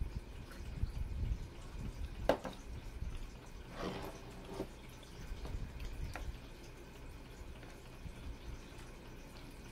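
Close-up eating sounds: wet chewing and swallowing, with a sharp click about two seconds in and another around six seconds.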